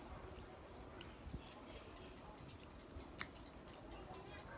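Faint chewing of soft boiled sweet potato, with a few small mouth clicks, the sharpest about three seconds in.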